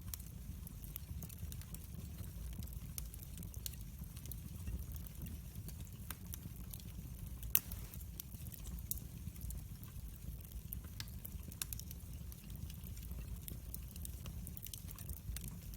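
Wood fire burning in a fireplace, crackling with scattered irregular pops over a steady low rumble; one pop about halfway through is sharper than the rest.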